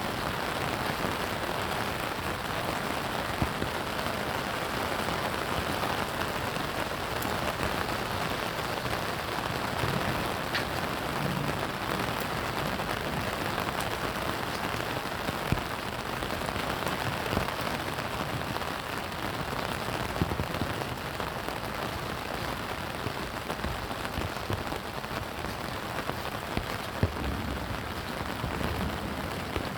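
Steady rain falling, an even hiss with a few sharper drop hits scattered through it.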